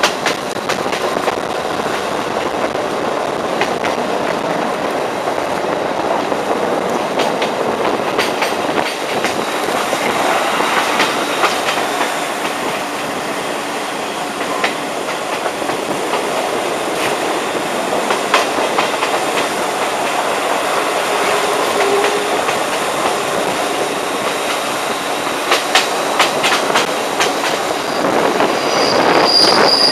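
Metre-gauge diesel railcar running along the track, heard from an open window: a steady rolling rumble with sharp clicks of the wheels over rail joints, coming in clusters and thickest near the end as the sound grows louder.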